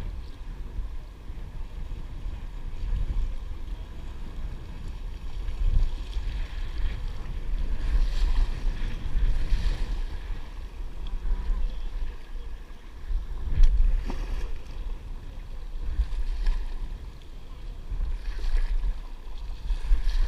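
Wind buffeting the microphone in a gusting low rumble, with swells of water splashing and swishing now and then.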